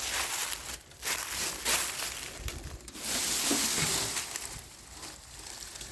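Footsteps crunching and rustling through dry leaf litter, coming in uneven swells.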